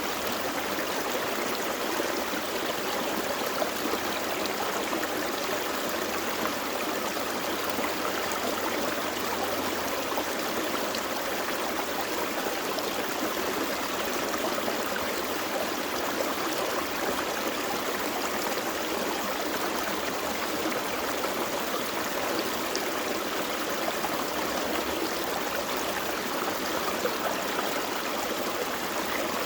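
A gentle forest creek flowing steadily over rocks, an even rushing and trickling of water.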